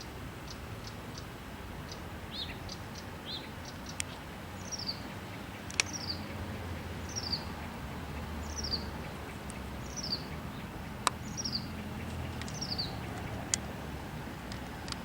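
A small songbird calling: a high, short falling note repeated about every second and a half, with a few shorter chips before it. A few sharp clicks and a steady low rumble sit under it.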